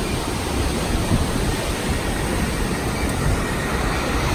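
Steady rushing noise of a moving passenger train heard from aboard, with wind on the microphone.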